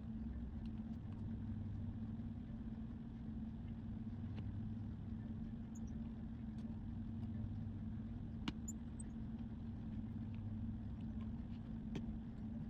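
Steady low machine hum, with a few faint, sharp clicks.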